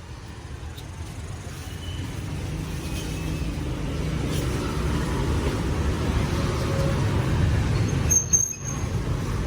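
Motor vehicle engine rumble on the street, growing louder over several seconds as it draws near, with a brief high squeal about eight seconds in.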